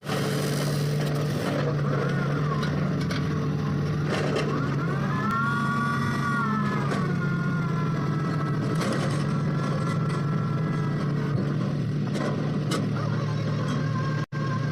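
Engine of a well-drilling machine running steadily at a constant speed, briefly cutting out for an instant near the end.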